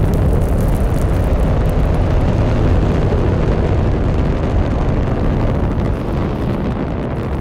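Delta IV rocket lifting off: its RS-68 main engine and two solid rocket motors making a loud, deep, steady rumble that eases slightly near the end.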